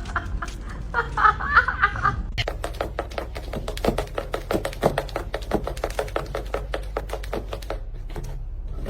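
A brief voice, like a snicker, then a long run of quick, uneven clicks or taps, several a second.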